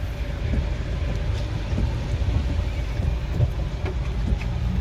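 Steady, loud rumble and rush of a river in flood.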